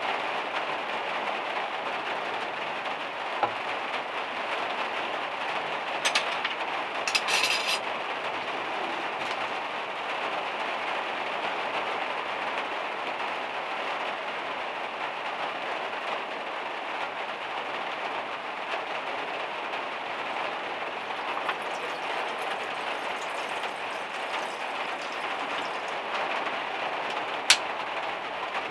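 Heavy rain falling on a van's metal roof, a steady dense patter. A couple of brief crackles come about six to eight seconds in, and a single sharp click near the end.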